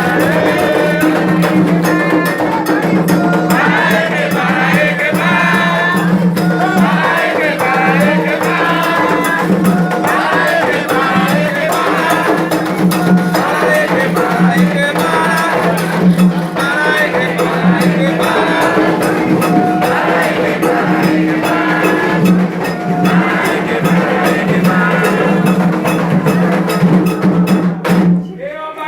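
Candomblé ritual music for Xangô: drums and other percussion keeping a fast, steady rhythm under group singing. It cuts off abruptly near the end.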